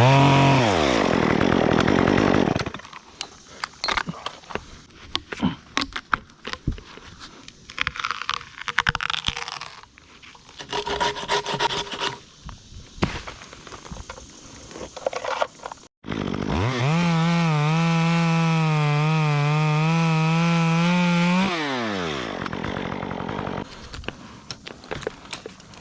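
Stihl MS 194T top-handle chainsaw with a Ripsaw 1/4" chain conversion: the engine falls from high revs to idle at the start, then comes scattered clicking, snapping and rustling of wood, and later the saw is held at full throttle for about five seconds, sawing wood, before dropping back to idle.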